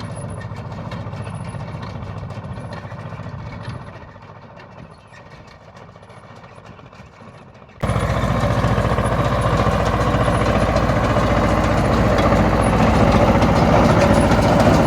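Tractor engine running steadily in the hayfield. It drops in level about four seconds in, then cuts suddenly to a much louder stretch of engine and machinery noise about eight seconds in.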